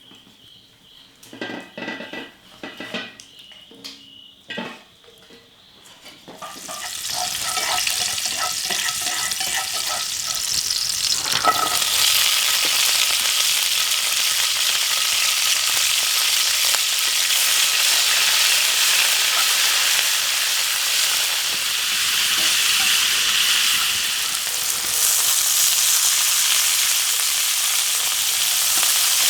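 Food sizzling as it fries in a hot pan. The sizzle starts loud about six seconds in, after a few light knocks and clatters, and keeps going steadily.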